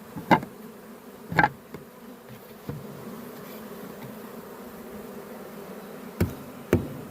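Honeybees buzzing steadily around an open hive box, with four sharp knocks, two near the start and two near the end.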